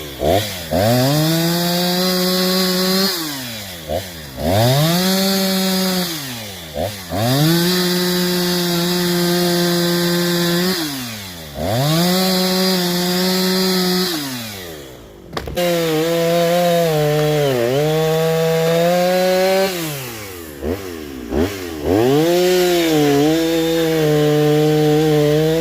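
A rebuilt Jonsered two-stroke chainsaw, fitted with a cheap eBay cylinder-and-piston top-end kit, cutting through a tree. The engine revs up to full throttle and holds while the pitch wavers and sags under load in the wood, then drops back toward idle between cuts, about six times over. It runs strongly with no sign of trouble.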